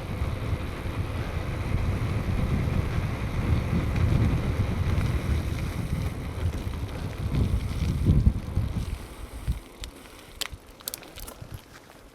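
Wind buffeting the microphone with the rumble of a bicycle being ridden on a road, a low rushing noise that drops away about nine seconds in. A few sharp clicks follow near the end.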